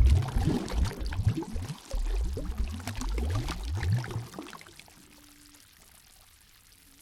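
Water gurgling and splashing, with bubbly low gurgles that rise in pitch over and over, dying away after about four and a half seconds.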